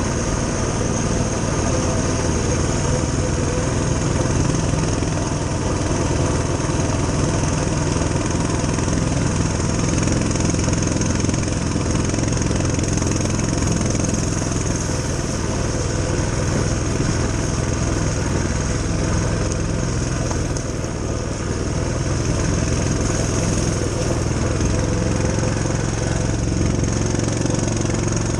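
Coleman CT200U-EXR mini bike's single-cylinder four-stroke engine running at a steady speed.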